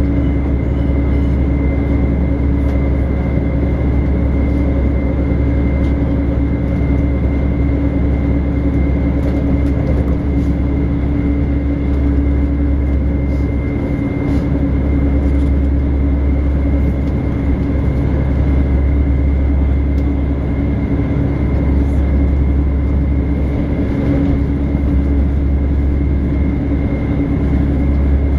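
Passenger train running, heard from inside the carriage: a steady deep rumble with a constant hum and a thin high whine over it.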